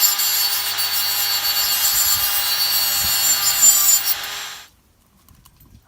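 Power tool grinding down the metal tabs of a stove pot stand: a steady, high grinding hiss with a constant motor tone, cutting off about four and a half seconds in.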